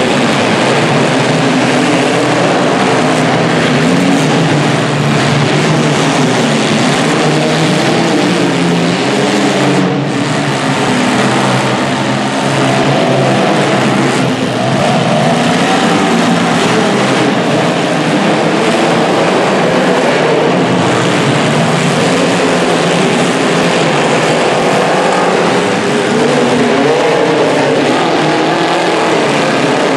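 Several demolition derby car engines running and revving at once, their pitches overlapping and wavering up and down over a dense steady din.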